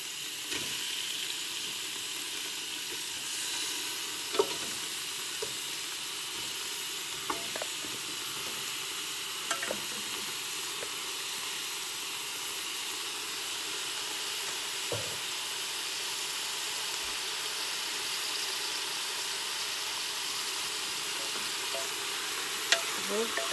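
Onions and beef chunks sizzling steadily as they fry in a pressure cooker pot, with a few sharp clicks as pieces are dropped in and a wooden spoon knocks against the pot near the end.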